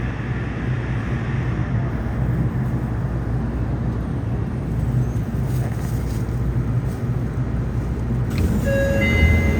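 Yokohama Municipal Subway 3000N train running, a steady low rumble of wheels and running gear heard from inside the car. Near the end a few short, clear tones sound over the rumble.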